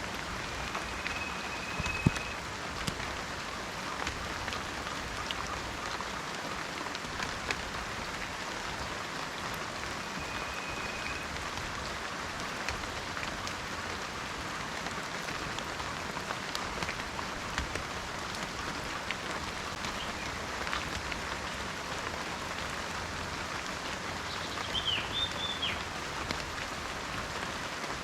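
Steady rain falling in a forest, with scattered drips and one sharper drop about two seconds in. A bird gives a thin, level whistle twice and a short wavering call near the end.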